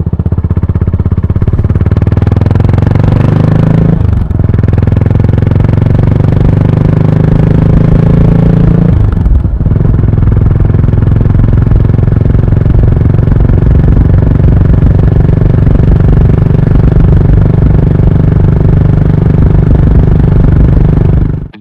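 Yamaha SR400's air-cooled single-cylinder engine, fitted with a GOODS tapered-cone muffler, accelerating through the gears. The revs climb, drop briefly at about four seconds and again around nine and a half seconds as it upshifts, then hold steady at a cruise.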